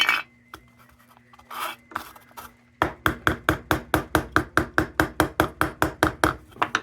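Quick, even tapping on a lantern's thin sheet metal, about six strikes a second for some four seconds from about three seconds in, as a bent part is worked back into shape. A single knock comes right at the start.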